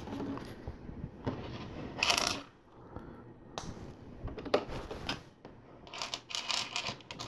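Small plastic LEGO pieces clicking and clattering as plates are handled and pressed onto the build: scattered sharp clicks, with a louder rattle about two seconds in and another run of clicks near the end.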